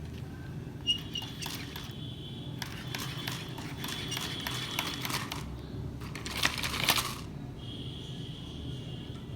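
Budgerigars chirping and chattering in bursts of high, scratchy notes, with a sharp click about a second in, over a steady low hum.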